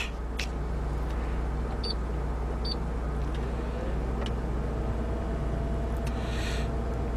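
Steady low hum of a car's engine idling, heard from inside the cabin, with a few faint clicks.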